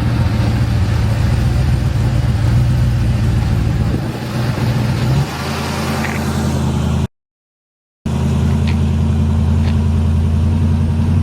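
A car engine running steadily, with a low, even rumble that changes pitch slightly about five seconds in. The sound cuts out completely for about a second shortly after seven seconds.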